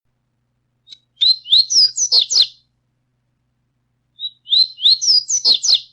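Coleiro (double-collared seedeater) singing its tui-tui song in two phrases of quick, clear, whistled notes that rise and fall, with a pause of about a second and a half between them.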